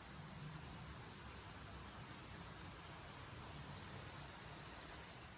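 Quiet natural outdoor ambience: a short high chirp from a small bird or insect repeats about every second and a half over a faint steady hiss and low rumble.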